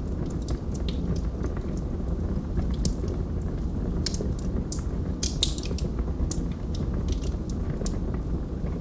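Wood fire burning in a fireplace: a steady low rumble of flame with irregular crackles and pops from the burning logs, a few sharper pops around the middle.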